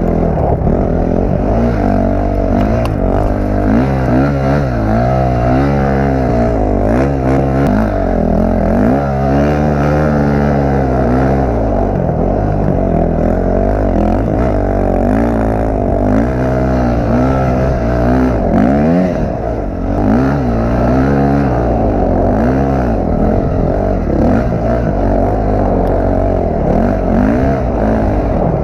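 Dirt bike engine revving up and down over and over as the bike is ridden hard, the pitch climbing and dropping every second or two.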